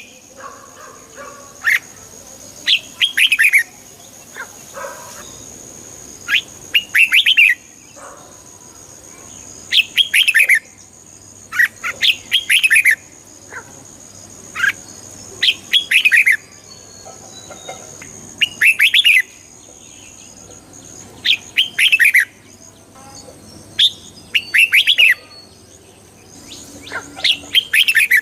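Red-whiskered bulbul singing short, quick chirping phrases, one every second or two, over a faint steady high-pitched whine.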